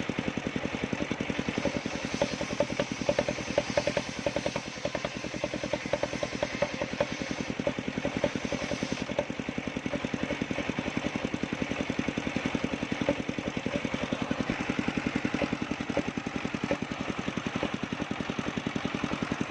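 Engine powering a homemade circular-saw sawmill, running steadily with a rapid, even firing beat.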